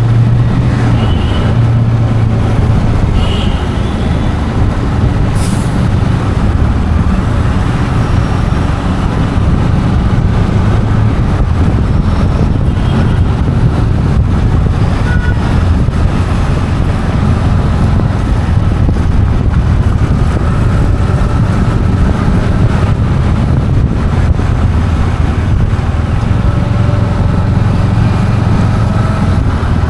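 Steady road traffic noise: a continuous low rumble of vehicle engines and tyres.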